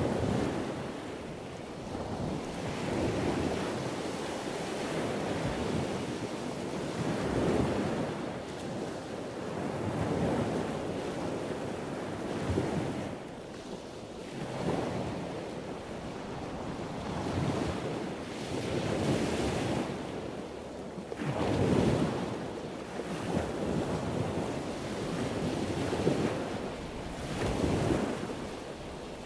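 Wind buffeting the microphone, a rumbling rush that swells and fades in gusts every few seconds.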